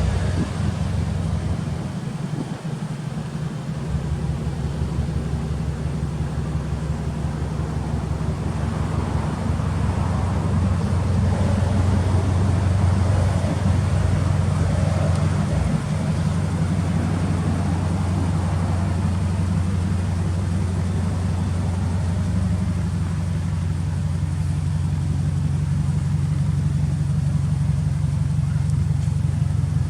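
2003 Subaru Impreza STI's turbocharged flat-four engine idling steadily through its titanium aftermarket muffler, a low, even note.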